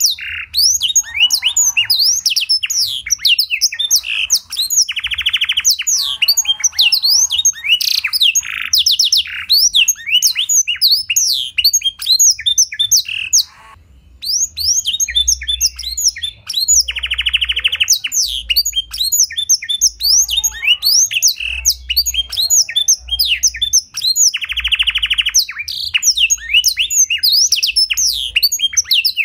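Domestic canary singing a long, continuous song of rapid high chirps and sweeping notes, trained to carry blackthroat phrases, with a buzzy rattling trill three or four times and a brief pause about halfway through.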